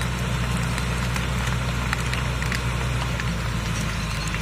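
Truck engine running steadily while a load of garbage tips out, with scattered crackles and snaps from the debris.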